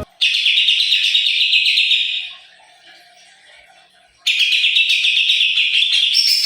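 A songbird singing in two long bouts of fast, dense trilling and chattering, with a pause of about two seconds between them.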